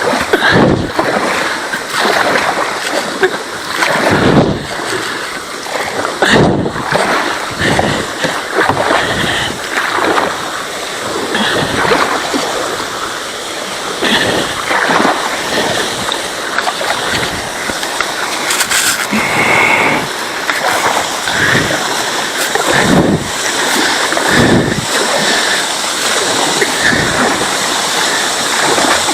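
Kayak paddle strokes splashing irregularly in swift river current, over steady rushing water.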